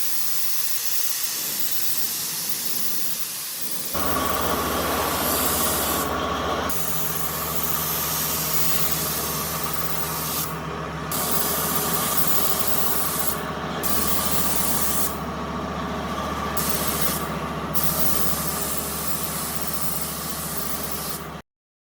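Compressed-air spray gun hissing, broken by several short pauses where the trigger is let off. About four seconds in, a machine with a steady hum starts running underneath and keeps going.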